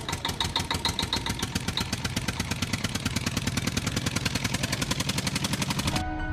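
Engine running with a fast, even chugging, about ten beats a second. It cuts off suddenly near the end.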